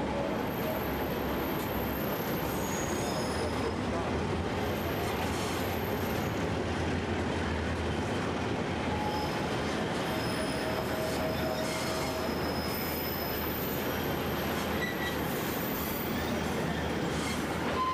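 Narrow-gauge passenger train rolling along curving mountain track, heard from aboard. There is a steady rumble of wheels on rail, with thin wheel squeals that come and go as the cars take the curve.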